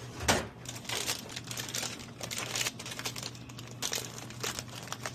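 Plastic snack packets crinkling and rustling as they are handled, in a run of short, irregular bursts over a low steady hum.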